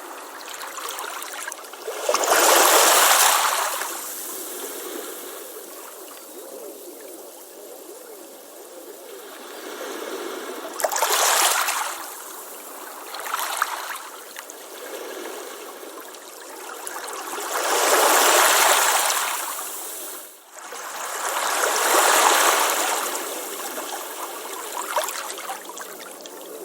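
Ocean waves breaking and washing up a beach: four larger waves swell and fade about 2, 11, 18 and 22 seconds in, with a smaller one between, over a steady hiss of moving water.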